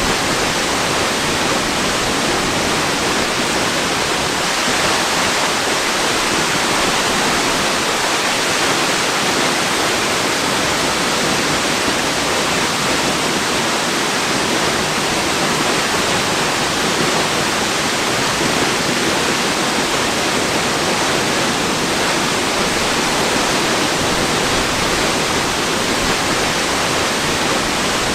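Waterfall: falling water rushing in a steady, unbroken hiss with little low rumble.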